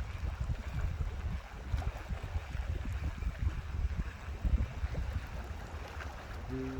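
Uneven low rumble of wind buffeting the microphone beside moving water, with a few faint clicks. A steady tone starts right at the end.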